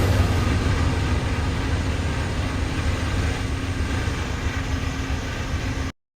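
Norfolk Southern train rolling past with a steady, heavy rumble that slowly fades, then cuts off abruptly near the end.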